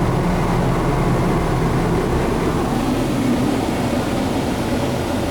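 Steady rushing rumble heard from inside a car entering an automatic car wash bay: the wash's high-pressure entrance blasters running as the car drives in.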